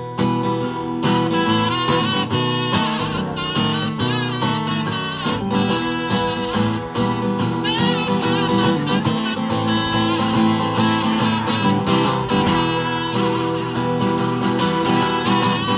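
Live instrumental music: a strummed acoustic guitar with a wavering lead melody over it, and no singing.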